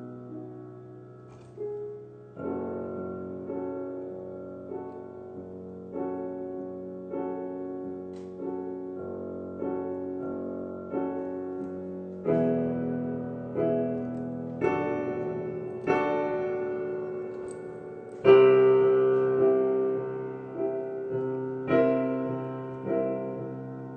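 Piano playing slow chords, each struck and left to ring, about one every second or so, growing louder in the second half with the loudest chord about three quarters through.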